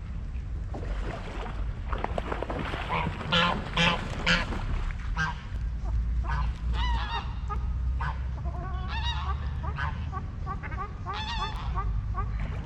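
Waterfowl calling repeatedly in a series of short, strident calls, loudest about three to four seconds in, over a steady low rumble.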